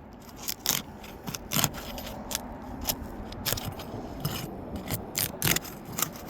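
Old 3-tab asphalt shingle seals being broken with a tool worked under the tabs: irregular sharp cracks and scrapes, a few a second, as the adhesive strips pull loose.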